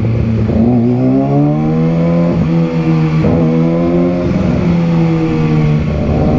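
Motorcycle engine running at low road speed, heard from the rider's position: its note rises for a second or so, then holds steady, with a few brief breaks in the note, over wind and road noise.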